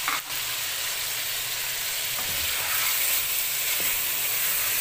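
Chicken pieces and garlic paste sizzling in hot ghee in a metal pot, steady frying hiss, while they are stirred and turned with a wooden spoon; a brief knock about a quarter second in.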